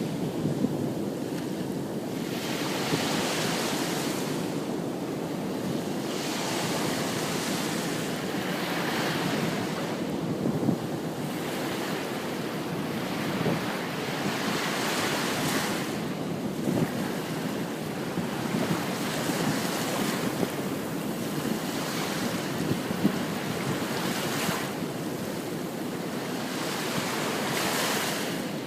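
Ocean surf breaking and washing up a beach, the wash swelling and fading every two to three seconds, with wind rumbling on the microphone.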